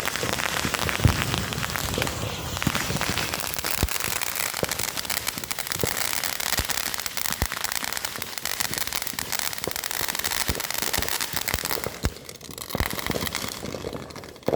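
Fountain firework spraying: a steady hiss thick with rapid crackling pops, dying down over the last two seconds or so.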